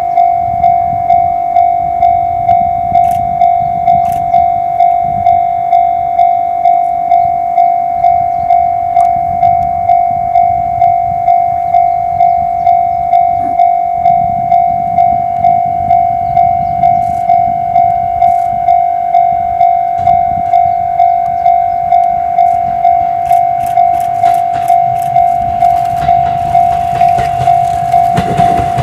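Railway level-crossing alarm ringing one repeated tone about one and a half times a second, over the low rumble of a train. Near the end, clicks from the rails and a louder rumble build as the train comes closer.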